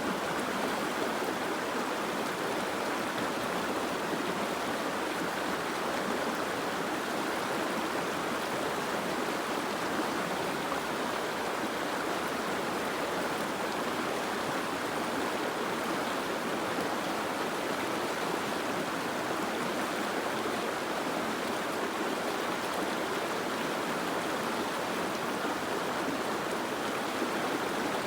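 Soft rain falling steadily, an even hiss with no separate drops or changes standing out.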